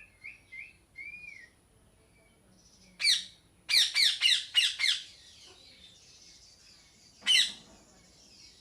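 Parrot squawking: a harsh squawk about three seconds in, a quick run of five more just after, and another near the end. Soft whistled chirps come first, in the opening second and a half.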